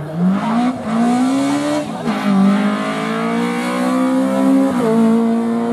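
Rally car engine accelerating hard through the gears: its pitch climbs, drops at an upshift about two seconds in, climbs again, and drops at a second upshift near the end.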